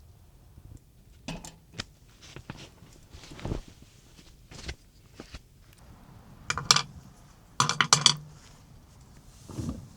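Scattered clinks and clatters of camp cookware and utensils being handled, loudest in two quick clusters in the second half.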